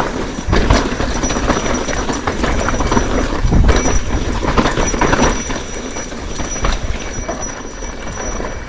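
Bicycle rattling and clattering over rough ground, with a steady low rumble of wind on the microphone.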